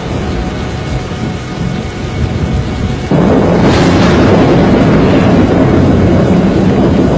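Violent storm from a disaster film's soundtrack: dense rumbling with rain and wind noise, jumping suddenly much louder about three seconds in and staying loud.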